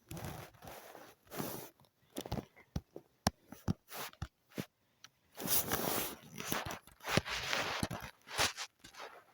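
Irregular taps and clicks close to the microphone, with bursts of rustling and rubbing, the longest about halfway through and again about two seconds later, as from a phone being handled.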